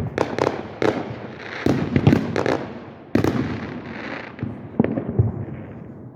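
Aerial fireworks bursting in quick succession: many sharp bangs, some overlapping, with a hissing crackle between them.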